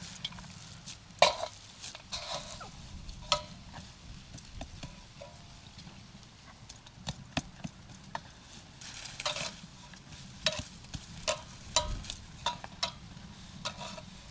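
Food being stirred in a pot or pan: irregular clicks and knocks of a utensil against the cookware, the sharpest about a second in.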